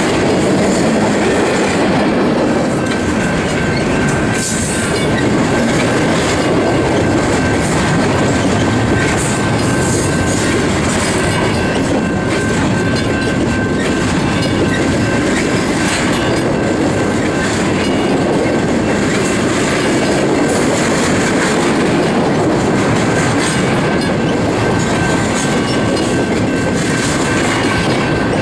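Freight cars of a Union Pacific intermodal train rolling steadily past, their wheels clicking over the rail joints, with a thin steady high whine above the rumble.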